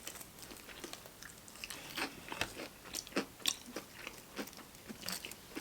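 Close-miked chewing of crunchy fried chicken: irregular crunches and wet mouth clicks, a few strokes a second, fairly faint.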